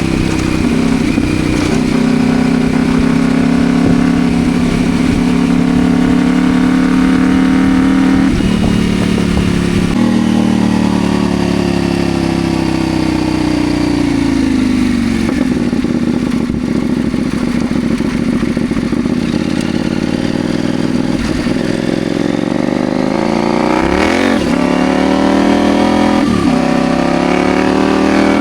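CFMoto Ibex 800T motorcycle's parallel-twin engine running while riding, with its note shifting with the throttle and gears: a step down about a third of the way in, a long fall in pitch as it slows, and a quick dip and rise in revs near the end.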